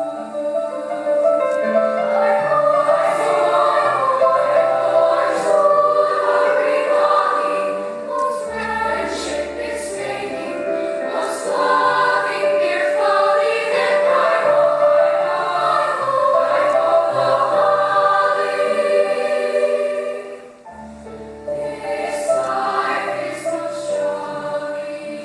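A school choir singing in parts, holding sustained chords, with a brief break about twenty seconds in before the singing resumes.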